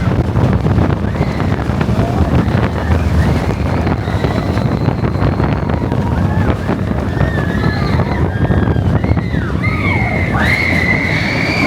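Expedition Everest roller coaster train rumbling along its track, with wind buffeting the microphone. Several high squeals glide up and down from about halfway, the loudest near the end.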